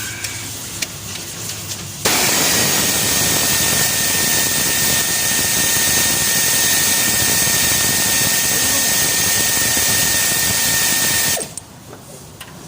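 Power tool running steadily for about nine seconds with a high whine over a loud hiss, starting and stopping abruptly, as another fastener on the Ford Crown Victoria V8's cylinder head is worked loose.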